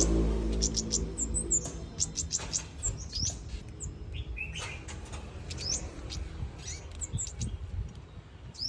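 Caged ốc mít bulbuls giving scattered short, high chirps and quick rising call notes. Low background music fades out in the first second.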